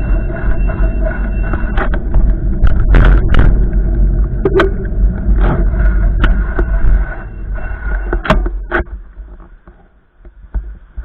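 Strong wind gusts buffeting the microphone in a low, heavy rumble, with a steady hum and several sharp knocks. The gusts die down about nine seconds in, and it goes much quieter.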